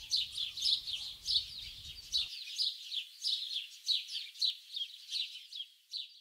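Birdsong: a bird's short, high, falling chirps repeated about three times a second.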